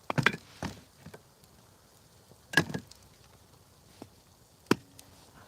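A few sharp wooden knocks and clatters, like firewood being handled: a cluster at the start, a louder one about two and a half seconds in, and a single crack near the end.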